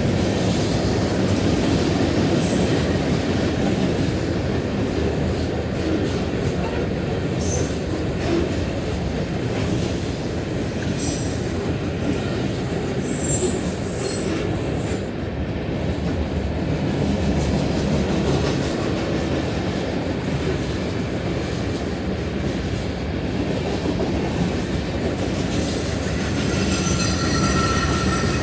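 Long freight train of loaded autorack cars rolling past, a steady rumble of steel wheels on rail. Several brief high wheel squeals come through in the middle, and steady ringing squeal tones rise near the end.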